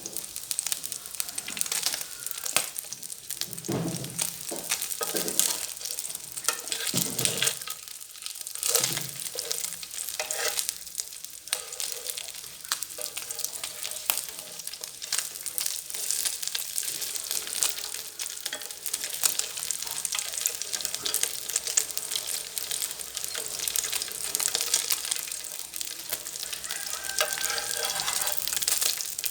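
Fish frying in hot oil, a steady sizzle with constant crackling and spitting. A few dull low thuds come in the first third.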